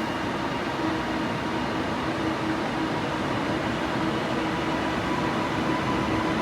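Train running with a steady hum, a constant low-pitched tone held over a steady rumble.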